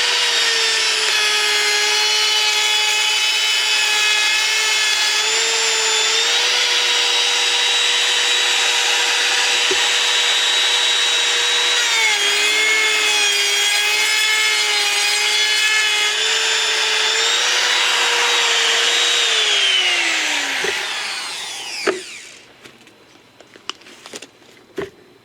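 Handheld router running and cutting along a wooden edge: a loud, steady high whine that wavers slightly as the bit takes the cut. About twenty seconds in it is switched off and its pitch falls as it spins down, followed by a few sharp knocks.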